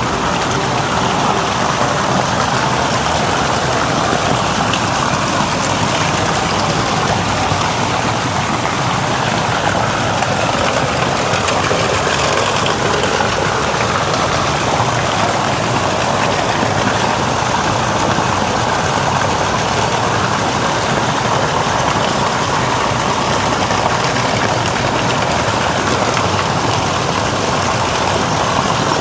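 Steady rush of falling water, an even noise that does not let up.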